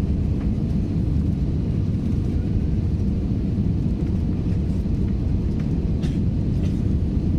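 Steady low rumble of engines and rushing air inside the cabin of a Super Air Jet Airbus A320 on its landing approach, with a few faint ticks of cabin rattle about six seconds in.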